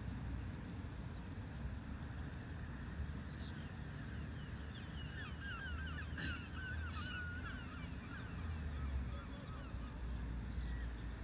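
Birds calling: a brief flurry of rapid, quickly bending chattering notes about five seconds in, over a steady low outdoor rumble, with a couple of sharp clicks in the middle.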